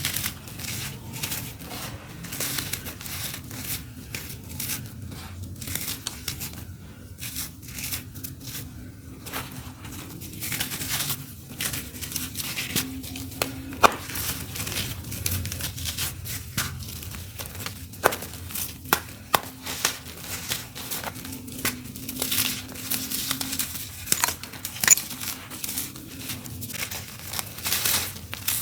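Dry, crunchy clumps of earthy dirt being crumbled onto a floor: an irregular run of crunches and sharp crackles, with a few louder snaps.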